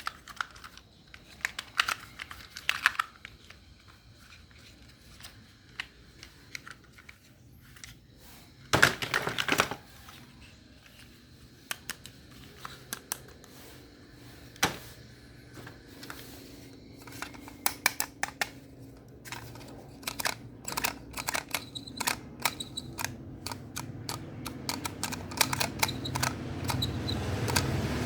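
Small hard objects, such as plastic toys and parts, being handled and knocked together, with many sharp clicks and taps and a brief louder rattle about nine seconds in. A low hum comes in during the second half and grows toward the end.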